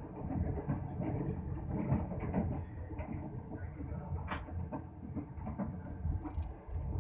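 Passenger train running at speed, heard from inside the coach: a steady rumble of wheels on the rails, with a single sharp clack about four seconds in.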